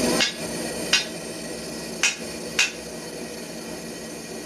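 Four sharp hammer strikes on metal at uneven intervals, over a steady workshop hum.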